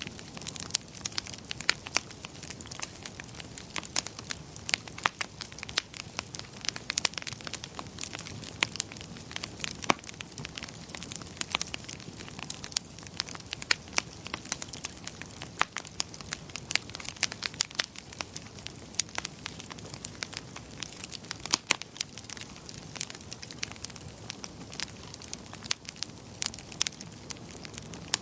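Wood fire crackling in a fireplace: irregular sharp pops and snaps, some much louder than others, over a steady low hiss of burning.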